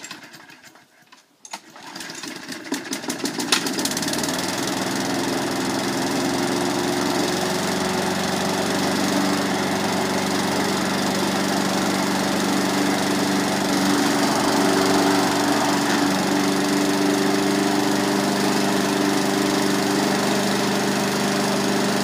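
Briggs & Stratton 3.5 hp Sprint push mower's single-cylinder four-stroke engine cold-started with the pull cord. It catches about a second and a half in, rises over the next couple of seconds and settles into a steady run.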